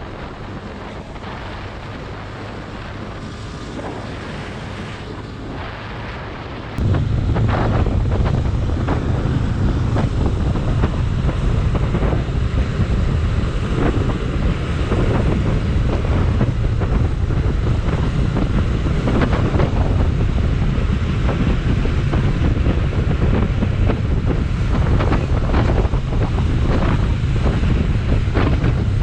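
Wind rushing over the microphone of a motorcyclist riding, with a low rumble underneath. The rumble jumps suddenly louder about seven seconds in and stays loud.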